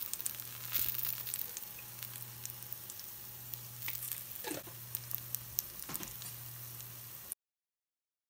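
Minari and shrimp pancake frying in oil in a stainless steel pan: a steady sizzle with scattered crackles and pops, over a steady low hum. The sound cuts off suddenly near the end.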